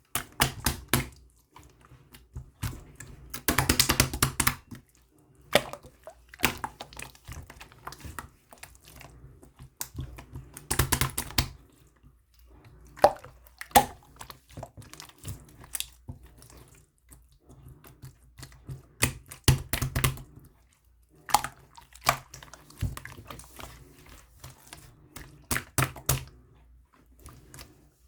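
Blue slime being squeezed and stretched by hand, giving clusters of sticky clicks and small pops with short quiet gaps between them.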